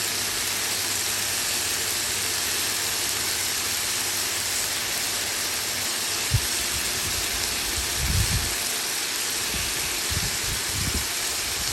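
Vegetables sizzling steadily in a hot frying pan, with a few low thumps about halfway through and near the end.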